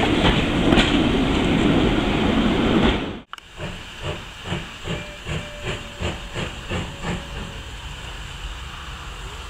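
Loud, steady rushing noise of a moving train, cut off suddenly about three seconds in. It is followed by a steam locomotive's exhaust beats, about two to three a second, fading away as it pulls off.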